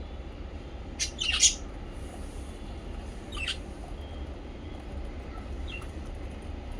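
Small pet parrots chirping: a loud burst of high chirps about a second in, a shorter chirp at about three and a half seconds and a faint call near the end, over a steady low hum.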